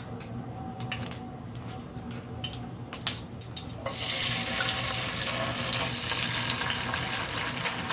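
A spoon scrapes and clicks against a glass jar as tomato paste is scooped out. About four seconds in, the tomato hits the hot olive oil in the pan and a steady sizzle of frying starts and keeps going.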